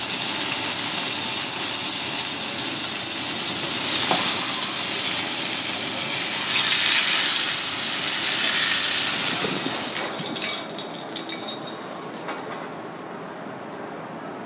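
A razorfish fillet sizzling in hot oil in a frying pan: a loud, steady sizzle that dies down about ten seconds in, leaving a few light clicks.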